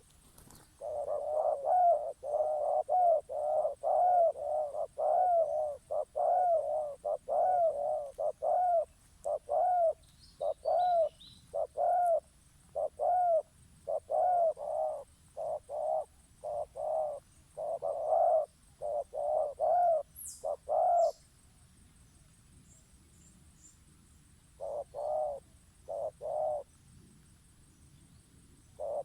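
Bird lure call: short hooting notes repeated about twice a second in a long run. The run stops about 21 seconds in and comes back in shorter groups near the end.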